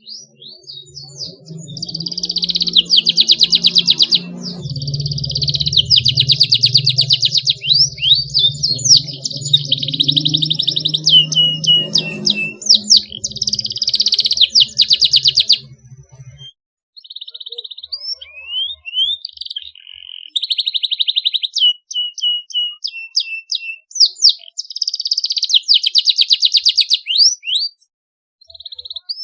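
Domestic canary singing continuously: fast trilled rolls alternate with rising whistled notes and short pauses. A low rumble runs beneath the song for about the first half and stops about halfway through.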